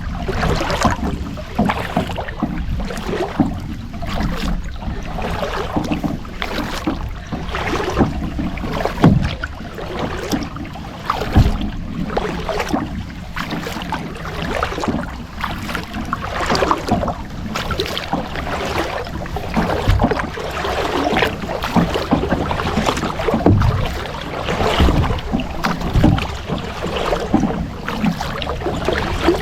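Kayak paddling: the paddle dipping and splashing through the water stroke after stroke, with occasional sharper knocks.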